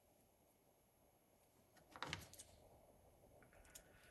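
Near silence, broken about two seconds in by a brief soft rustle and clatter of small craft pieces being handled, and a faint tick near the end.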